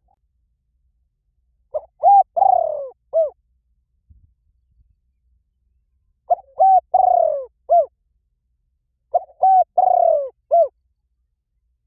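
Bird calling in three short phrases, each of four to five quick arched cooing notes, a few seconds apart.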